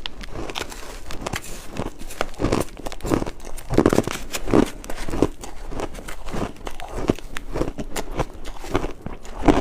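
Ice being bitten and crunched in the mouth close to the microphone: an irregular run of sharp, cracking crunches, several a second, with no pause.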